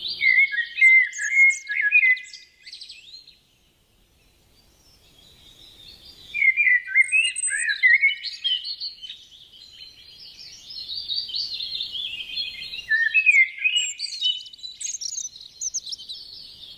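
Songbird singing a rapid, varied warbling song of chirps and trills, pausing briefly about three and a half seconds in before starting up again.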